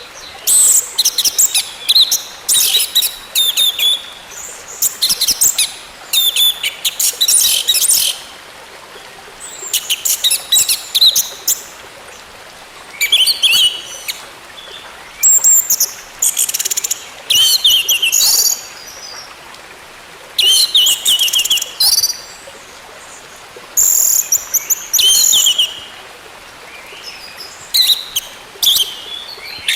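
Orange-headed thrush singing: repeated bursts of quick, high, varied notes, each burst a second or two long, with short pauses between them.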